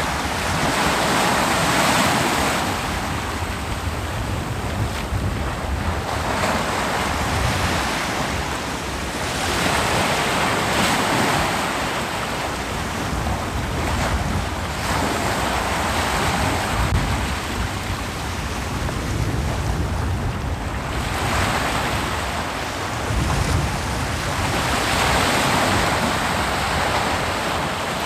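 Ocean surf breaking on a beach, a steady wash of noise that swells every few seconds as successive waves come in, over a low rumble, with some wind on the microphone.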